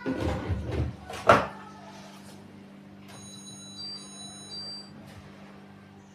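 Household handling noises: a brief rumbling clatter, then a sharp knock, over a steady low hum. A short run of high electronic beeps or chime tones follows.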